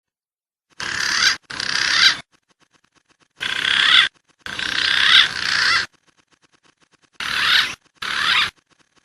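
Bird calls from a hunters' lure recording: harsh, rasping calls in three pairs, each about half a second to a second and a half long, with short gaps between the pairs.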